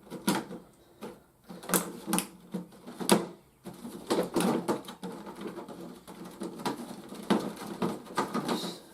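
Hard plastic toy parts being handled: a few separate clicks and knocks, then a continuous clattering rattle of small plastic pieces from about three and a half seconds in.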